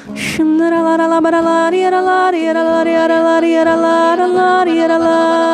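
Slow worship music: a voice sings long held notes over soft instrumental backing, moving to a new note about two seconds in and again near the end.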